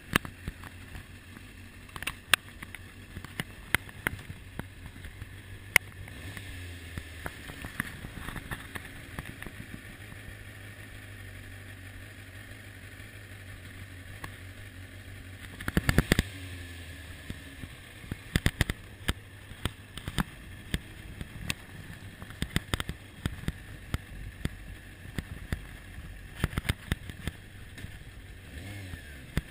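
Kawasaki ZX-6R's inline-four engine idling with a steady low hum, under sharp knocks, clicks and rustling from gear being handled right at the helmet camera, with a loud cluster of knocks about sixteen seconds in.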